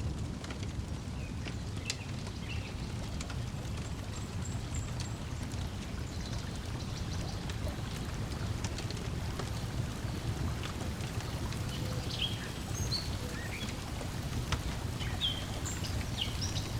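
Wood fire crackling with scattered sharp pops over a steady low wash of lake water lapping. Short bird chirps come in, mostly in the second half.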